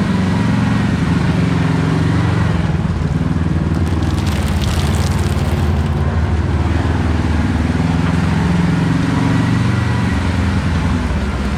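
Side-by-side UTV's engine running steadily under way, a Can-Am Maverick X3, with a brief rush of noise about four seconds in that lasts a couple of seconds.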